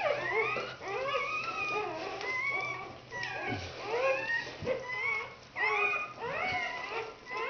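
Newborn red standard poodle puppies squeaking and crying, several high thin overlapping cries that rise and fall.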